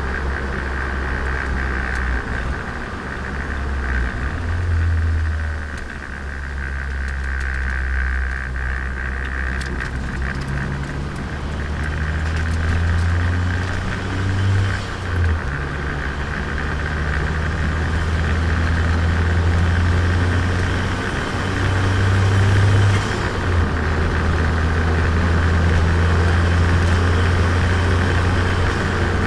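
Turbocharged Nissan Micra's engine and exhaust, heard from onboard while driving. The engine note rises and falls several times as the car accelerates and shifts gear, over a steady road noise.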